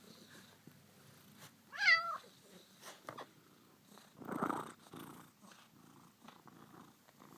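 Domestic cat meowing: one short, wavering meow about two seconds in, then a brief rougher sound about halfway through.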